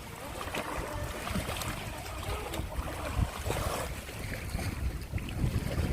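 Wind buffeting the microphone at the seashore, with waves washing over it.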